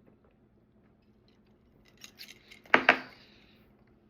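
Tableware being handled: a few light clicks about two seconds in, then two sharp clinks in quick succession with a short ring, like a fork or dish knocking against a plate.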